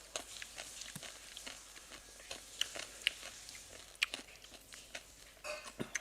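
A person chewing fruit pulp and seeds close to the microphone, with many small, irregular crunches and clicks as the seeds are bitten.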